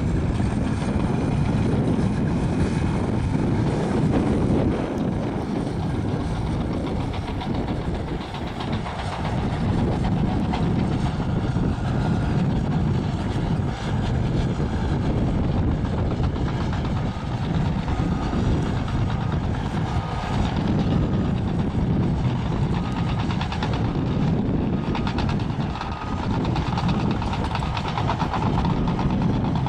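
Caterpillar bulldozer working: a steady diesel engine note with track clatter. A faint beep repeats about once a second through the second half.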